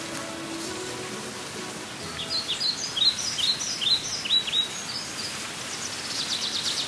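A songbird singing over a steady hiss of outdoor background noise: a run of about eight short falling notes, about three a second, then a faster twitter near the end.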